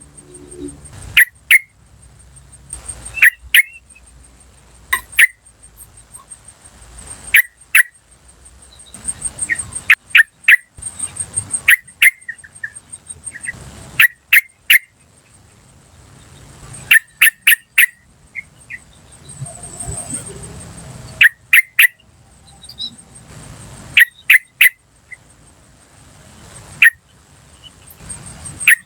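Yellow-vented bulbul (trucukan) giving short, sharp "cuk cuk cuk" calls in quick clusters of two to four notes, repeated every one to three seconds.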